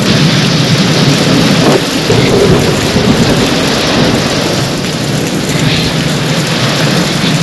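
Heavy rain pouring steadily, with a deep rumble of thunder underneath.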